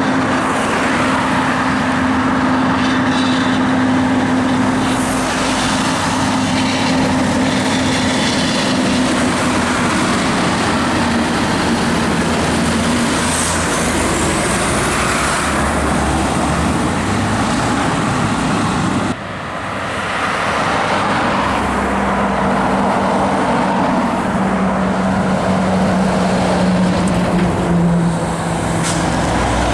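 Heavy trucks' diesel engines running as they drive past, with steady engine notes that shift in pitch and tyre noise; the sound drops out briefly about two-thirds through, then the engines resume.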